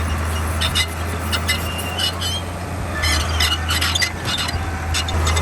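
Komatsu D41P bulldozer's diesel engine running with a steady low drone, over which come many sharp metallic clinks and a few short high squeals.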